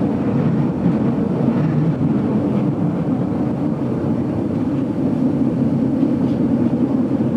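GoldenPass Belle Époque carriage running along the rails, a steady low rumble of wheels and running gear heard from inside the passenger car.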